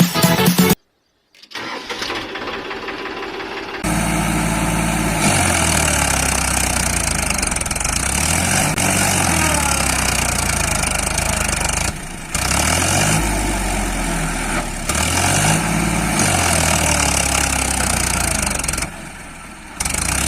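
Engine sound running steadily and revving up and back down several times, with a few abrupt breaks.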